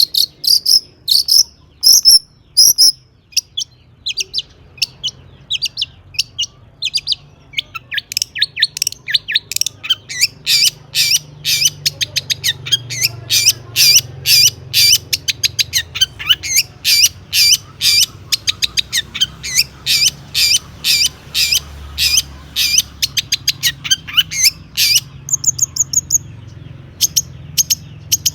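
Long-tailed shrike (cendet) singing a rapid string of sharp, repeated high chattering notes, loose at first, then about three a second from several seconds in. The song is full of mimicked calls, the 'isian' that keepers prize.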